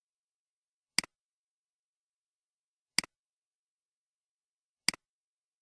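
Three computer mouse clicks about two seconds apart, each a sharp button press followed at once by a softer release click.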